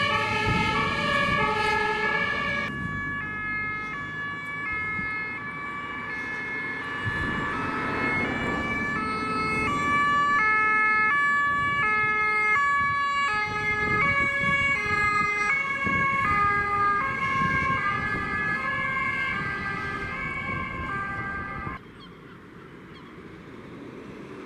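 German two-tone emergency vehicle sirens (Martinshorn) sounding as the vehicles drive off on call-outs, a high and a low note alternating at a steady pace. About three seconds in, one siren gives way to another at a different pitch, which runs until it cuts off suddenly near the end, leaving only the vehicle engine and wind.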